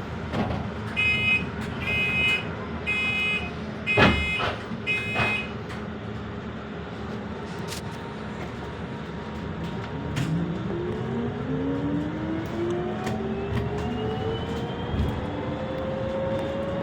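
Scania K230EB bus: five short electronic warning beeps about a second apart, with a sharp knock about four seconds in, then the bus pulls away, its drive note rising steadily in pitch.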